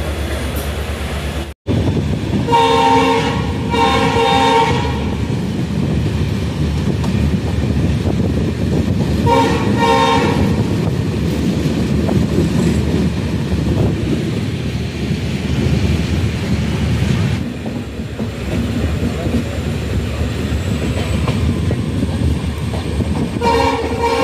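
Passenger train running, its wheels rumbling and clattering on the rails, heard from inside a moving coach. A train horn sounds in two short pairs of blasts, about three seconds in and about nine seconds in, and once more near the end.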